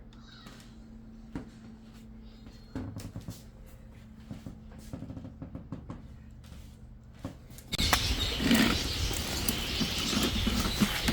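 Light clicks and knocks of hands working the controls on a toddler ride-on toy fire truck. About two-thirds of the way in, the toy's small battery-powered speaker starts a loud electronic sound effect that resembles an animal call.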